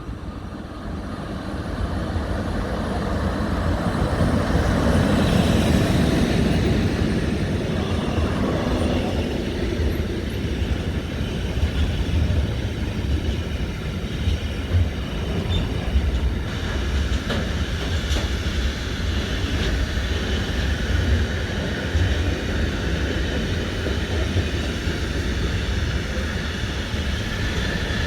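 Train moving on the track: a steady rumble of wheels on rail that swells to its loudest about five seconds in, then runs on evenly with a few sharp clicks.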